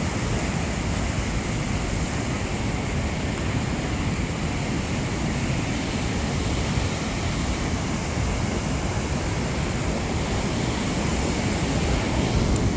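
Steady wind rush buffeting the microphone on a moving motorcycle, heaviest in the low end, with no distinct engine note standing out.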